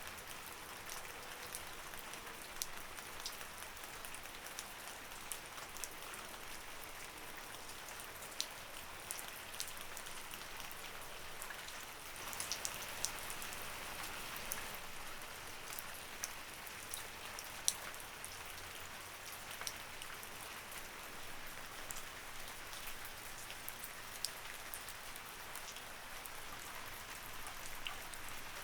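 Light rain falling steadily, an even hiss with scattered individual drops ticking on a surface.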